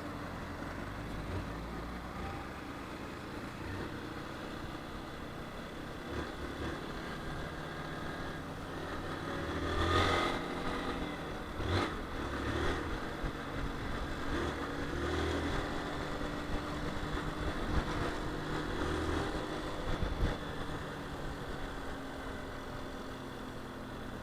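Honda CG 160 Fan single-cylinder motorcycle engine running as the bike is ridden in traffic, with mild swells in engine speed and a louder passage from about ten seconds in.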